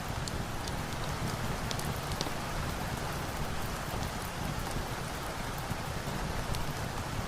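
Steady rain falling, an even hiss with a low rumble underneath, with scattered sharp ticks on top.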